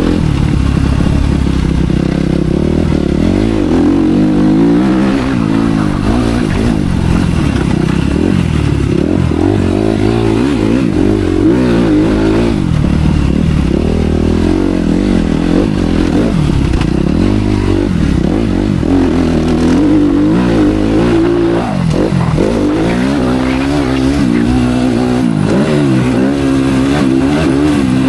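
Motocross bike engine revving hard and easing off again and again, its pitch rising and falling every second or two with the throttle and gear changes.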